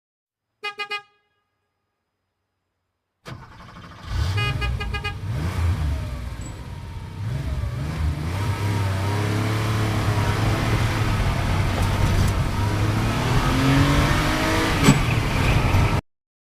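A car horn beeps three times in quick succession. After a pause, a car engine starts running with more short horn honks, its pitch rising and falling as it revs for about twelve seconds, then cuts off suddenly.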